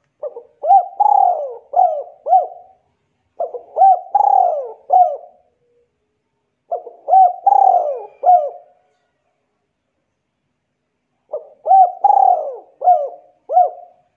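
A bird calling: four phrases of about five quick notes each, every note rising and falling in pitch, with pauses of a second or more between the phrases.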